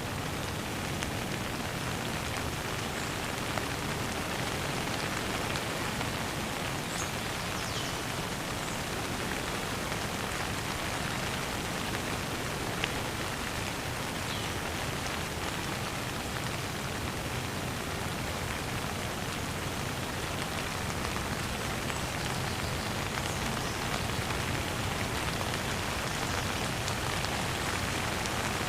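Steady rain falling, an even wash of raindrops hitting surfaces at a constant level, with a few faint short high chirps over it.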